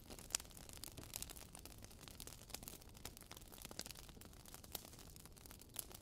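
Crackling fire sound effect: soft, irregular pops and snaps over a faint hiss, with one sharper pop shortly after the start.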